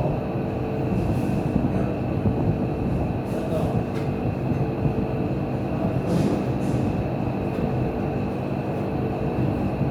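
Steady mechanical rumble with a constant hum running through it, and a few faint clicks.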